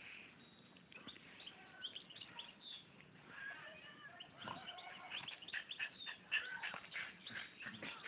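Faint bird chirps, with a run of quick clicks and scuffs that grows busier from about five seconds in.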